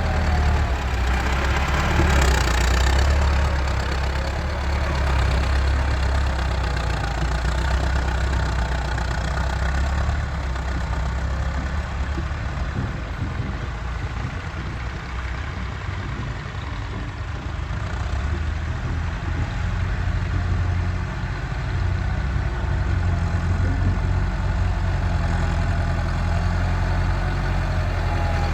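Massey Ferguson 385 tractor's four-cylinder diesel engine running steadily, easing off a little in the middle and picking up again later.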